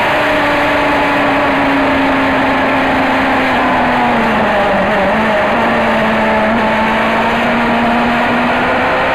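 Race car engine running hard at high revs, heard from inside the car, over heavy road and wind noise. Its pitch eases down a little about halfway through and then holds steady.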